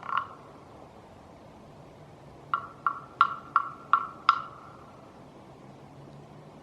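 Frog-like croaking: one croak right at the start, then six quick, sharp, hollow croaks, about three a second, a couple of seconds in.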